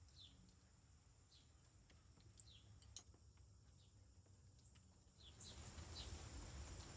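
Near silence outdoors: faint small birds chirping now and then in short falling calls over a steady high-pitched tone. A soft rushing noise rises about five seconds in.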